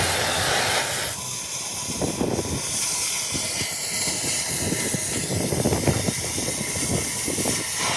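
Electric welding arc hissing and crackling steadily.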